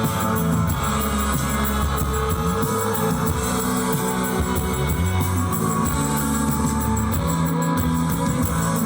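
Live rock band playing an instrumental passage, with electric guitar, bass and drum kit.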